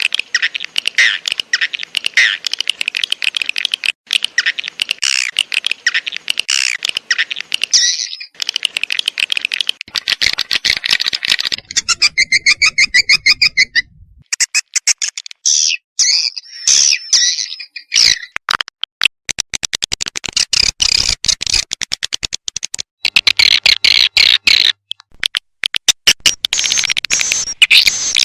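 Recorded edible-nest swiftlet calls from a swiftlet lure-call track: a dense, rapid chatter of short twittering chirps and clicks, with a buzzing trill about halfway through.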